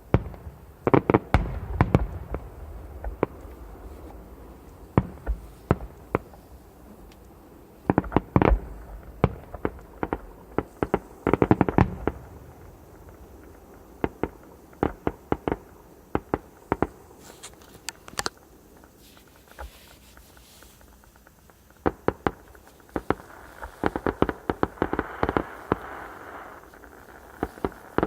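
Fireworks going off: many sharp bangs and pops, some coming in quick clusters, with a denser run of rapid pops and a rushing hiss near the end.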